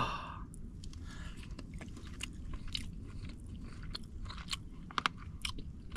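Close-up chewing of a mouthful of buttered crab meat and steak, with scattered small crunches and clicks from a bit of crab shell caught in the bite.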